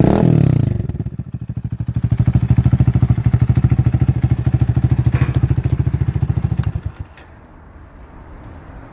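Honda Grom clone's single-cylinder four-stroke engine, fitted with a Nibbi carburettor, no airbox and an aftermarket exhaust, running: revs fall away from a blip at the start, then it idles with an even, loping exhaust beat. The engine is shut off about seven seconds in.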